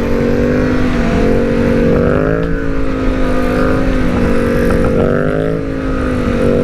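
BMW S1000R's inline-four engine running at steady, fairly high revs, its pitch briefly rising and easing back twice.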